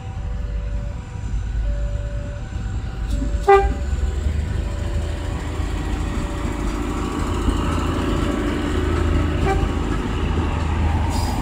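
Diesel commuter train passing close, a low engine hum and the rumble of wheels on the rails building from about four seconds in. Early on a two-tone warning beeps in short repeated notes, and one sharp knock sounds about three and a half seconds in.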